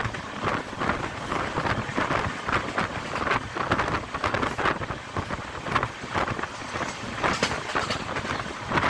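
A passenger train running, heard from inside a carriage at an open window: a steady rattle of wheels and coach body with many irregular clicks, and wind buffeting the microphone.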